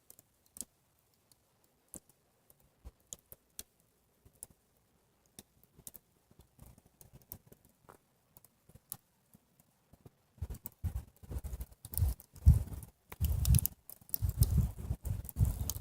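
Scattered faint clicks, then from about ten seconds in a run of louder irregular rustling and thumps: handling noise as the camera is moved and adjusted.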